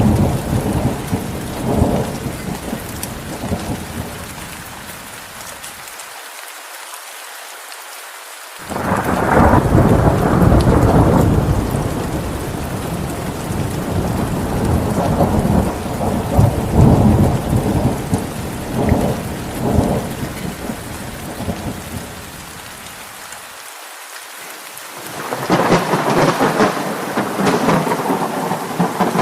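Heavy rain falling steadily, with rolling thunder: a loud rumble swells up about nine seconds in and dies away, and another builds near the end.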